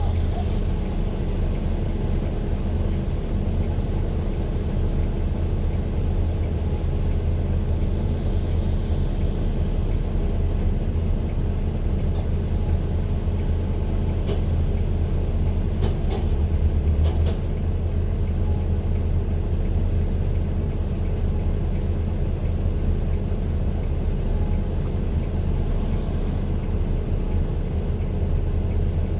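Steady low rumble of a moving road vehicle, engine and road noise, with a few brief clicks or rattles around the middle.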